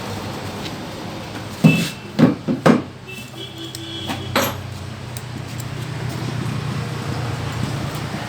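Several sharp knocks and clatters, four close together about two seconds in and one more a couple of seconds later, from tools and engine parts being handled during a motorcycle engine repair, over a steady low rumble.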